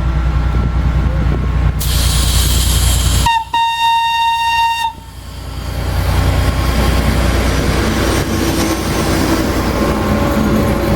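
A train's horn sounding one steady tone for about a second and a half, followed by a train passing with wheels clacking over the rails. A low rumble and a burst of hiss come before the horn, and the sound around it changes abruptly.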